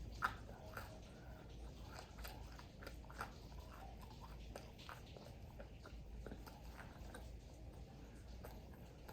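Close-miked chewing and biting of fried food: faint, irregular crunches and mouth clicks, with one sharper click about a quarter second in.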